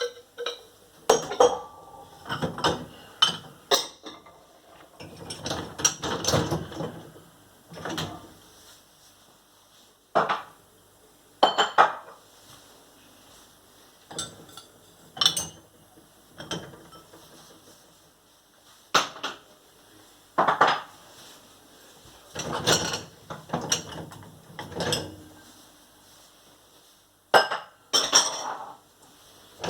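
Bowls and other crockery being lifted out of a dishwasher and set down on a kitchen worktop: irregular clinks and knocks every second or two, with quieter handling noise between them.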